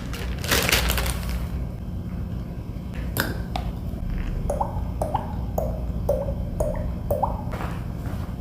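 Beatboxer's mouth-made sound effects: a short hiss, then a click, then a run of quick pops about two a second, each dropping in pitch, over a steady low hum.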